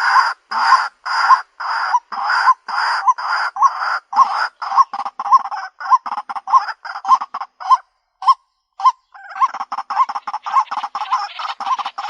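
White-breasted waterhen calling, as played for a bird-luring recording: short hoarse notes repeated about twice a second, quickening after a few seconds. About eight seconds in there is a brief pause broken by a single note, then the calls come fast and crowded.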